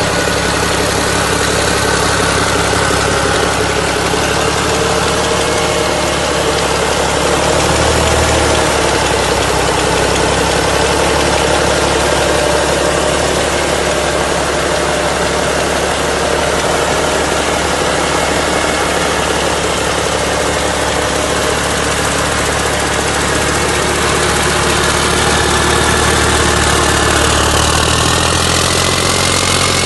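Mack E7-300 inline-six diesel engine running steadily at idle. Near the end a faint rising whine comes in as the engine note shifts.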